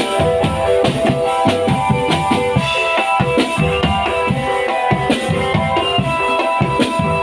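Marching drum band playing: snare and bass drums keep a dense, steady rhythm under held melody notes.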